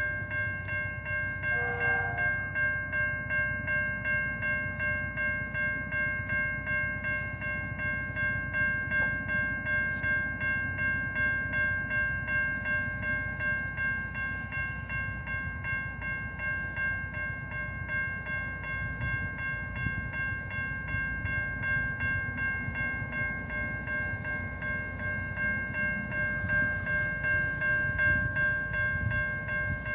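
A train running on the rails: a steady low rumble with quick, even pulses, under a high-pitched whine that holds one unchanging pitch throughout.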